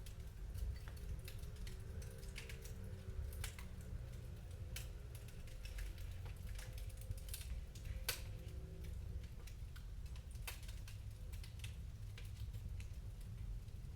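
Wood fire crackling in a fireplace: irregular sharp pops and snaps over a low steady rumble, with one sharper snap about eight seconds in.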